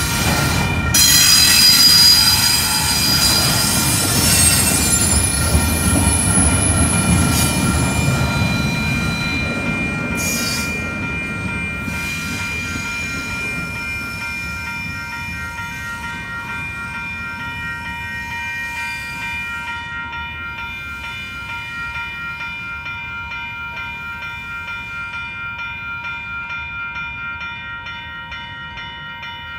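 BNSF double-stack intermodal freight train rolling past at a grade crossing, its rumble and wheel squeal fading away over the first ten seconds or so as the last cars clear. The crossing warning bell rings on steadily throughout.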